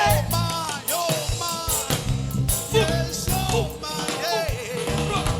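Live band music: drums and bass keep a steady groove under a lead line whose notes bend up and down in pitch.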